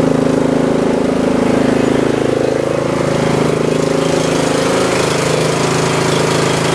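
Troy 30-inch riding lawn mower's engine running steadily.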